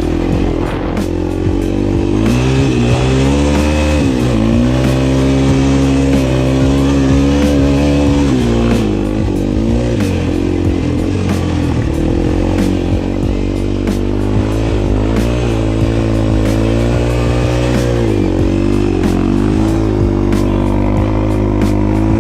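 Honda TRX400EX quad's single-cylinder four-stroke engine revving under riding, its pitch repeatedly climbing and dropping as the throttle is opened and let off.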